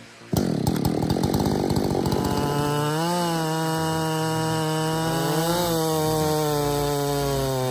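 Chainsaw that comes in suddenly about half a second in, then runs at high revs, its pitch wavering a few times.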